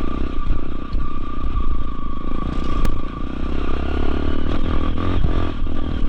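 Motorcycle engine running steadily while riding a rough, muddy trail, with clattering from the bike over the ground, muffled by a waterproof camera case.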